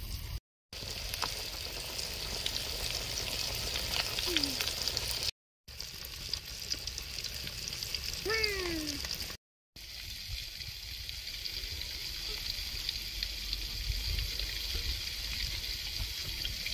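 Chicken legs deep-frying in oil in a wok over a wood fire: a steady sizzle with fine crackles, cut off briefly three times. A short cry falling in pitch sounds about halfway through.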